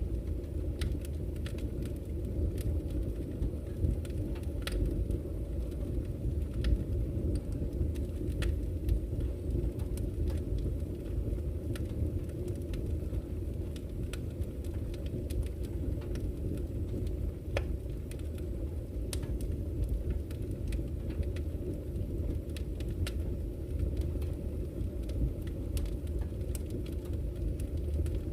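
Campfire crackling, with irregular sharp pops and snaps over the steady low rush of a flowing river.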